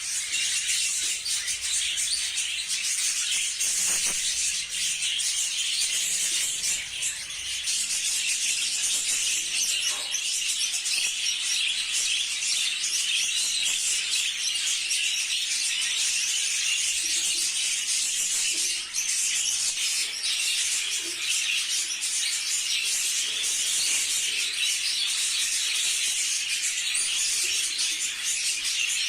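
A large flock of budgerigars chattering and chirping all at once, a continuous dense high-pitched twittering.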